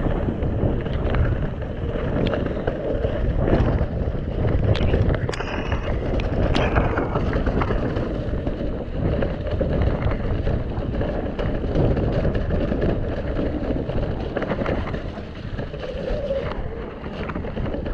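Mountain bike riding down a wet, muddy trail, heard from a camera on the rider: steady rush of tyre and wind noise on the microphone with frequent knocks and rattles of the bike over rough ground, and a brief high squeal about five to six seconds in.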